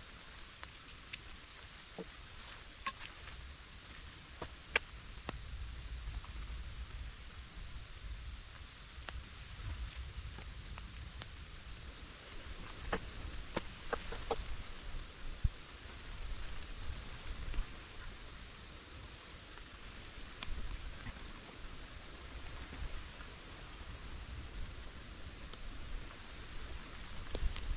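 Steady high-pitched chorus of insects, with a few scattered faint ticks and taps.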